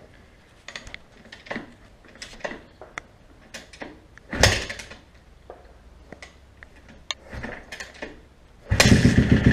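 Cold 2012 Kawasaki KX250F four-stroke single being kick-started, with small clicks of the kickstarter and bike being handled. There is one kick about four seconds in. Near the end a second kick makes the engine fire and run for about a second, then it dies without starting.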